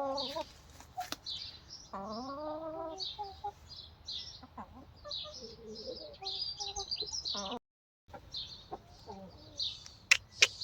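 Hens clucking, with a longer pitched call that bends upward about two seconds in and short high chirps scattered throughout. The sound drops out completely for a moment a little before eight seconds in.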